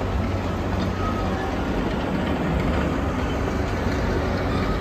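Two-foot narrow-gauge train running, a steady low rumble with no clear beat.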